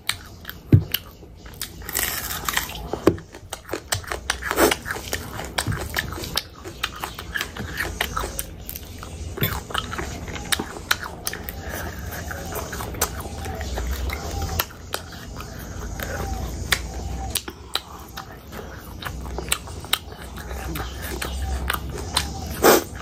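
Close-miked chewing and biting of rice and spicy pickled pork eaten by hand, with wet mouth sounds and many small clicks and crunches. A sharp crunch about a second in comes from biting into raw onion.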